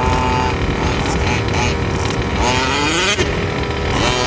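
Small two-stroke gas engine of a 1/5-scale RC truck running steadily, revved up in a rising sweep about two and a half seconds in and again near the end.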